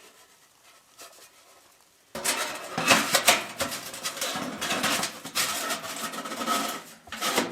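Thin metal wood-stove parts rattling and clinking as they are handled, starting abruptly about two seconds in after a quiet pause.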